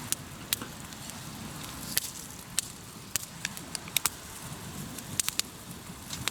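Wood campfire crackling in a fire pit: about a dozen sharp snaps and pops at irregular intervals over a steady low background noise.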